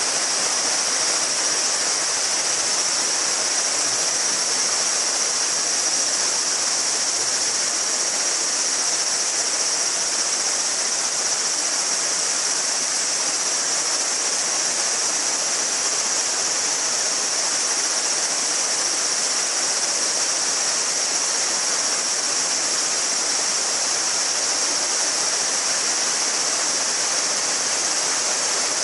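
River babbling with a steady rush of flowing water, and a dense summer chorus of cicadas as a continuous high, shrill hum over it.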